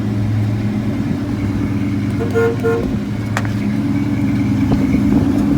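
1983 Chevrolet Silverado's 305 V8 idling with a steady hum, heard from inside the cab. About two seconds in there is a short horn toot, and a click follows about a second later.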